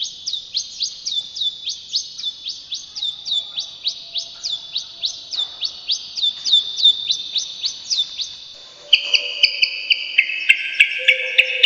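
Brown shrike (cendet) singing a fast, rolling series of down-slurred high whistles, about four a second. About nine seconds in, the run stops and a different phrase of held high notes with sharp clicks begins.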